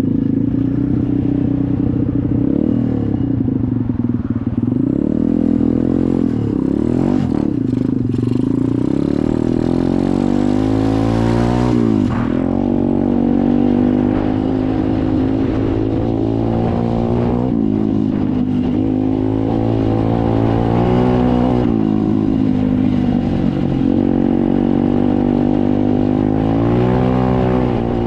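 SSR 125 dirt bike's single-cylinder four-stroke engine running while being ridden, its pitch rising as the throttle opens and dropping sharply every few seconds as it is let off or shifted.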